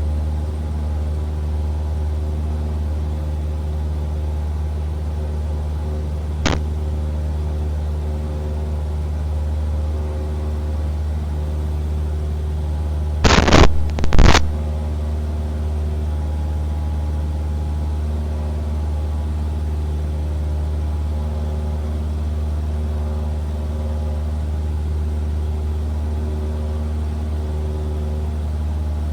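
Cessna 172R's four-cylinder Lycoming engine and propeller, a steady drone heard in the cockpit. There is one sharp click about six seconds in and a short burst of loud crackles about halfway through.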